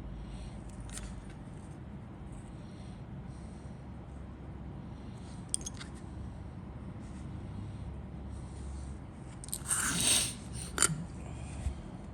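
Model kit parts and packaging being handled: a few light clicks, then a short crinkling rustle about ten seconds in and a sharp click just after, over a steady low hum.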